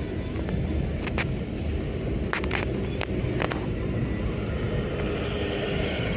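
A car driving along the road: a steady low rumble of engine and tyres, with a few short sharp clicks between about one and three and a half seconds in.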